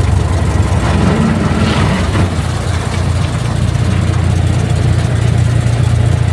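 Ford Model T's four-cylinder engine running steadily as the car drives, a continuous low drone heard from aboard the open car.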